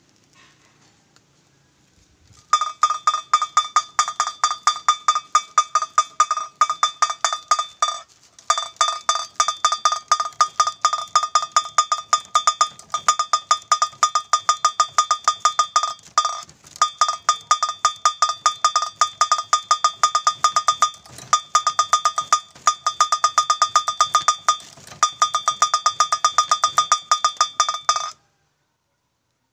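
Bamboo otok-otok kite clacker spun round, its beaters knocking a pitched bamboo tube in a rapid, even stream of hollow knocks. It breaks off briefly a few times and stops abruptly near the end.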